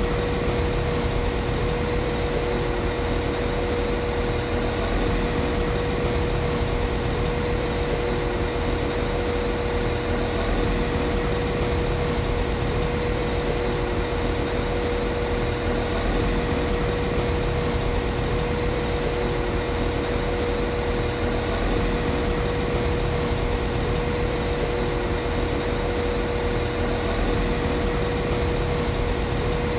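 Class 195 CAF Civity diesel multiple unit idling: its underfloor MTU six-cylinder diesel engine runs steadily, a low rumble with a steady tone above it.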